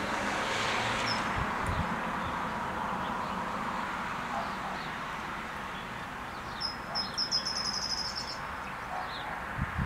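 A bird gives a quick run of high, rapidly repeated chirps about two-thirds of the way through, over a steady outdoor background hiss. A low thump comes at the very end.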